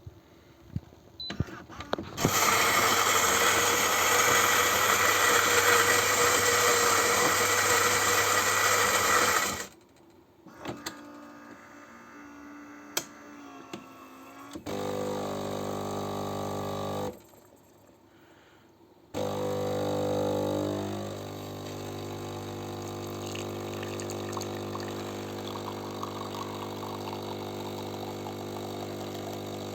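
Philips 5400 series bean-to-cup coffee machine making a coffee. The grinder runs loudly for about seven seconds, followed by clicks and a short mechanical whir. The pump then hums for a couple of seconds, stops briefly, and starts again, humming steadily while the coffee brews.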